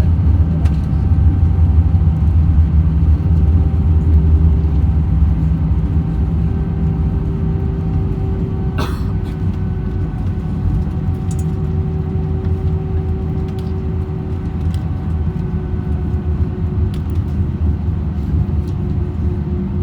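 Airbus A321-200 rolling on the ground after landing, heard from inside the cabin. The heavy rumble of the wheels fades as the aircraft slows. A steady whine from the brakes at several pitches drifts slowly lower with the speed. A single click comes about nine seconds in.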